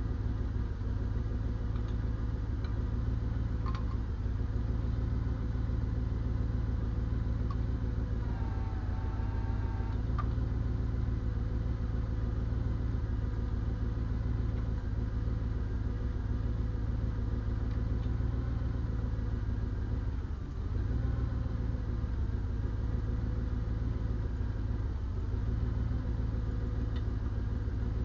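Diesel engine idling steadily, with a brief dip about twenty seconds in.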